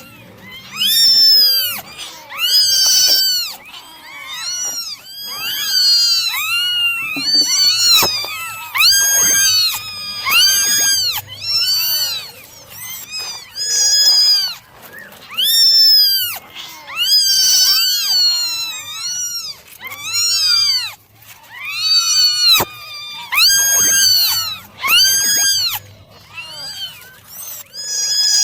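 Several kittens meowing over and over, high-pitched rising-and-falling cries that often overlap, about one or two calls a second.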